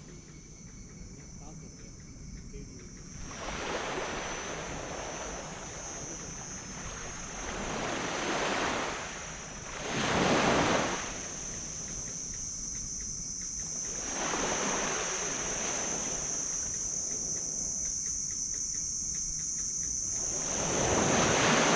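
Waves washing onto a black sand beach, the surf surging and receding about every four to five seconds. The loudest surge comes about halfway through, and another near the end. A steady high insect buzz runs underneath.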